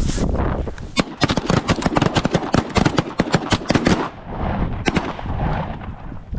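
A volley of shotgun fire from several hunters shooting at geese: many shots in quick, overlapping succession for about four seconds, then one more shot about five seconds in.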